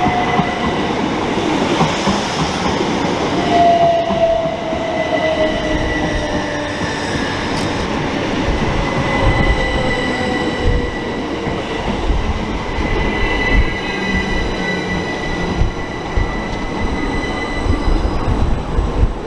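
Electric multiple-unit train running into the station, its traction motors whining in tones that fall steadily in pitch as it slows, over a continuous rumble of wheels on rails.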